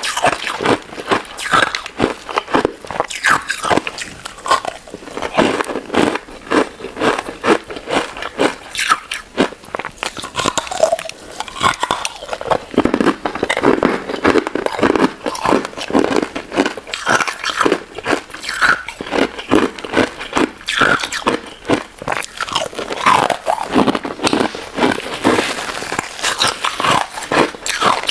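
Close-miked eating of a crunchy crystal ice dessert: a dense, continuous run of crisp crunches and crackles from biting and chewing.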